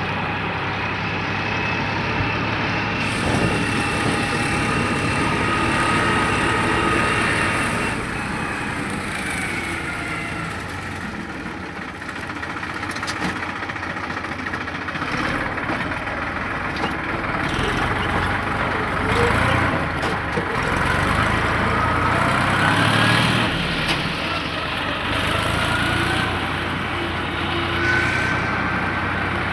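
Deutz-Fahr tractor engine running steadily, with a whine that rises and falls in pitch as the revs change.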